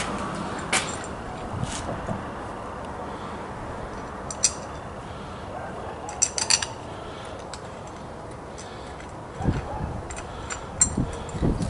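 Small metal tools and hardware clinking and tapping while a bracket is fitted to a lathe carriage: scattered sharp clinks with a short ring, with a couple of dull knocks near the end.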